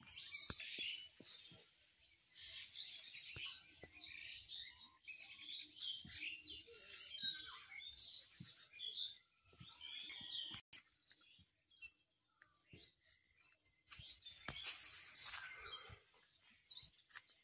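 Small birds chirping and twittering, many short high calls overlapping, with a quieter lull for a few seconds past the middle and a few faint clicks.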